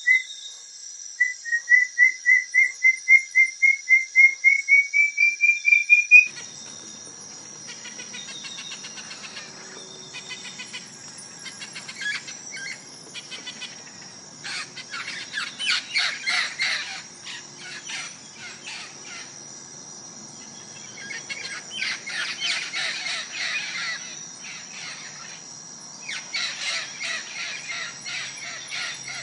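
Birds calling. First comes a run of short whistled notes, about four a second, climbing slowly in pitch. After about six seconds this gives way suddenly to repeated bursts of shrill chattering calls over a steady high-pitched drone.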